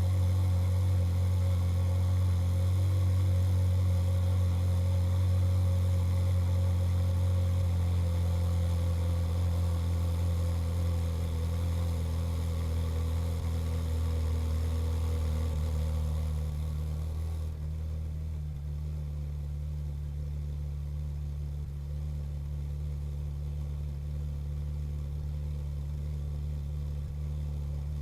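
Ferrari 458 Speciale's V8 idling steadily after a cold start. About two-thirds of the way through, the high cold idle drops to a lower, quieter idle.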